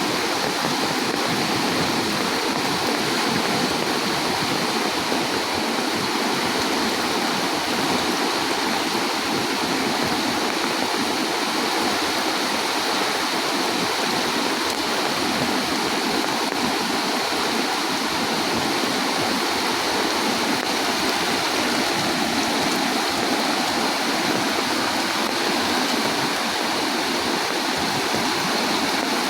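Rain-swollen floodwater rushing past in a steady, unbroken flow.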